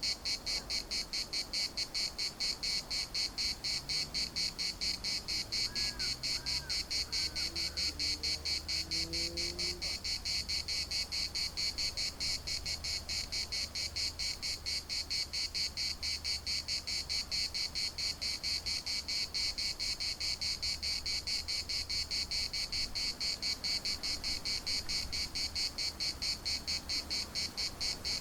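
Chorus of cicadas buzzing loudly in a high, shrill pulsing drone, about three to four pulses a second. A faint low sound rises in pitch a few seconds in, and a faint low hum runs underneath.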